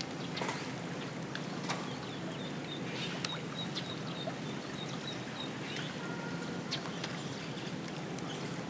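A run of short, high peeps, about four a second, from eastern spot-billed ducklings for a couple of seconds in the middle, over a steady low outdoor background with a few faint clicks.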